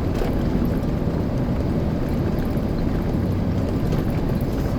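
Truck's engine and road noise as it drives, a steady low rumble with no distinct events.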